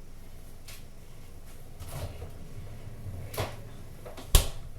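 Kitchen cupboard handling: faint knocks and rustling, then one sharp knock near the end as a door shuts.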